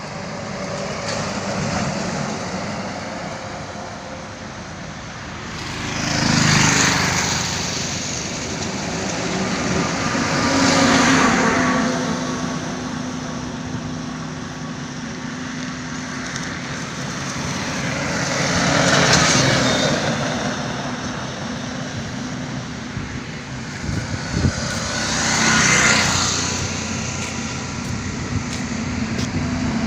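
Highway traffic: vehicles pass one after another over a steady engine drone, four of them loud, each swelling up and fading away.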